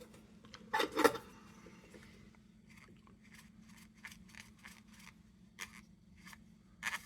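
Metal parts of an old tin lantern being handled: a few sharp clicks about a second in, then scattered small ticks and scrapes, and another click near the end.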